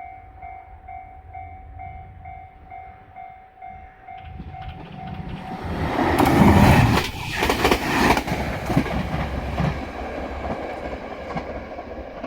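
A railway level-crossing bell dinging steadily, about two or three strikes a second. About five seconds in, a train passes close, loud, with its wheels clattering over the rail joints.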